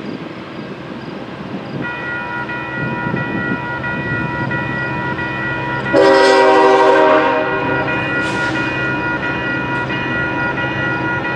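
Diesel freight locomotive approaching, its engine rumble growing louder, with its horn sounding; a much louder horn blast comes about six seconds in and lasts about a second.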